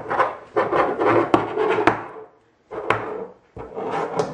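Scraping, rubbing and knocking as a pepper container is fumbled with in an attempt to open it, in irregular bursts with a short pause partway through.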